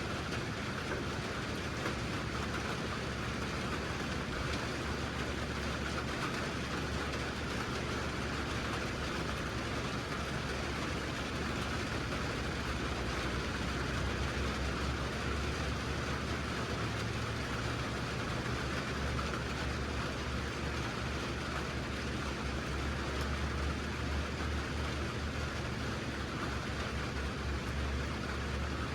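A vehicle engine running steadily with a constant low drone and an even hiss over it.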